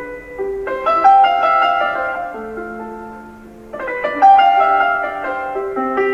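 Calm background piano music: a slow melody over chords, with a new phrase beginning about a second in and another near the four-second mark.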